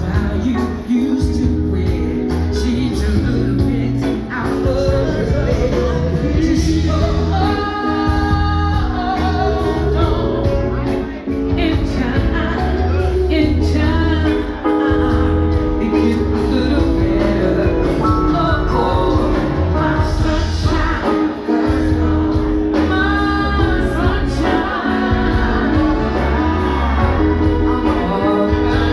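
Live band playing a song with a woman singing lead. Her sung lines come and go over the band's steady, heavy bass.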